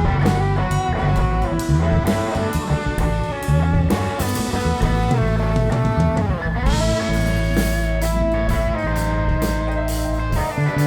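Live rock band playing an instrumental passage: a lead guitar line over bass and drums, with one note swooping down in pitch and back up about six seconds in.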